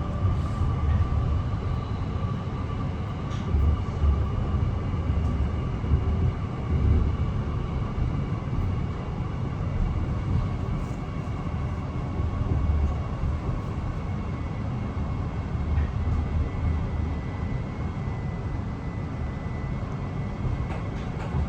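Steady low rumble and hum inside a Mariyung (D set) electric train carriage, with faint steady whining tones over it.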